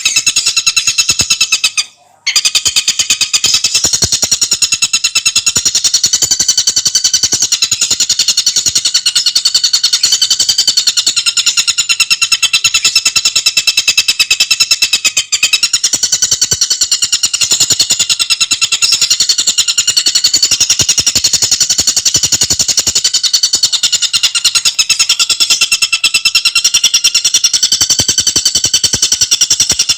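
Tengkek buto birdsong recording: a fast, tightly packed rattling chatter in a high pitch that runs on continuously, with a brief break about two seconds in.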